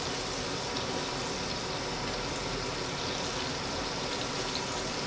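Chicken breasts frying in a stainless steel sauté pan, giving a steady, even sizzle.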